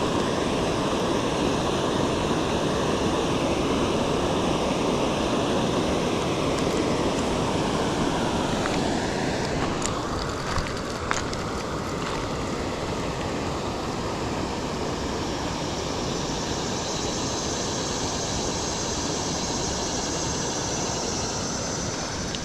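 Steady rushing of a waterfall, with a few brief clicks about ten seconds in.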